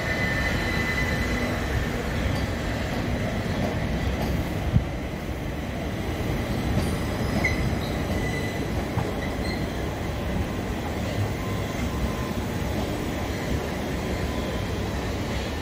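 Southern Class 377 Electrostar electric multiple unit moving slowly along the platform: a steady rumble of wheels on rail with faint wheel squeals coming and going, and a single sharp click about five seconds in.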